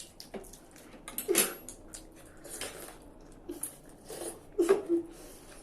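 Eating sounds: noodles and soup being slurped, with spoons and forks clicking against plates in short irregular strokes.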